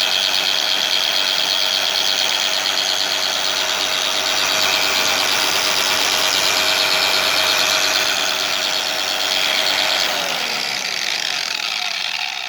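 Bauer 20-volt cordless 4.5-inch angle grinder running with no load at a steady high-pitched whine. Near the end it is switched off and winds down, the pitch falling as it fades.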